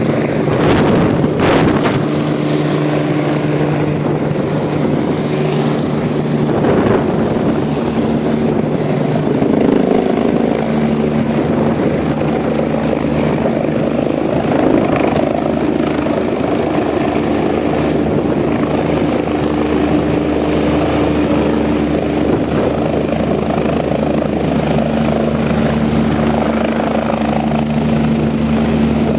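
Air ambulance helicopter running loudly and steadily, its rotor and engine making an even drone with a steady hum.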